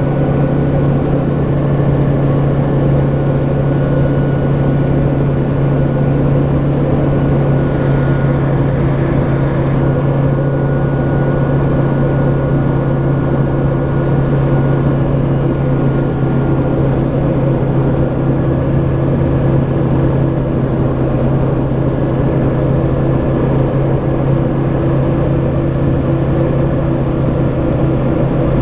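AutoGyro Cavalon gyroplane's engine and pusher propeller running steadily, a constant low drone that holds the same pitch throughout.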